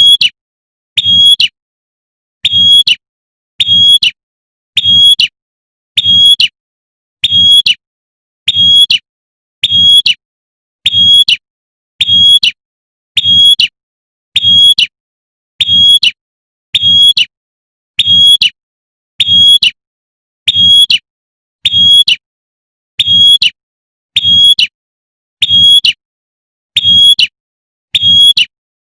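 Female prinia (prenjak) giving its sharp 'tembakan' call over and over, one short call about every second, the repeated call used to lure a male.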